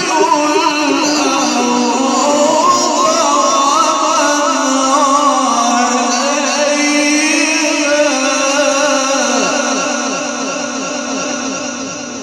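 A man's voice in melodic Quran recitation (tajwīd), drawing out long ornamented phrases with a wavering pitch, then fading near the end as the echo of the sound system rings on.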